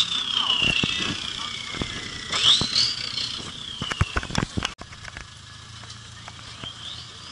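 Maserati GranTurismo's V8 engine being blipped with the hood open: the revs fall away from a previous blip, then shoot up sharply about two seconds in and sink back slowly. A few sharp knocks follow, and the engine settles to a quieter idle.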